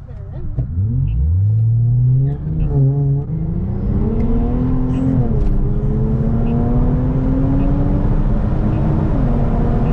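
Infiniti Q50 Red Sport 400's twin-turbo V6 accelerating, its pitch climbing through the gears with upshifts about three, five and nine seconds in.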